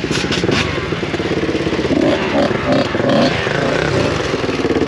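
Motocross bike engine running close by, with rapid, even firing pulses and a few light clicks in the first half second; the engine rises and falls a little in the middle.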